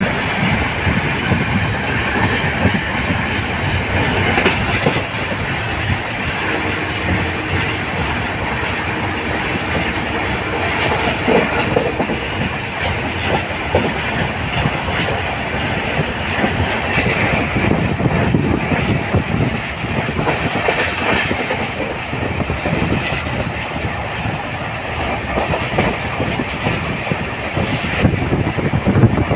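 Passenger train of the 16505 Gandhidham–Bengaluru weekly express running on the track: a loud, steady rumble and rattle of the coaches with the clatter of wheels over the rails.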